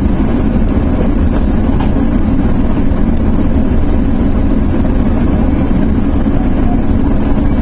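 Sounder commuter train running along at speed, heard from on board: a loud, steady low rumble.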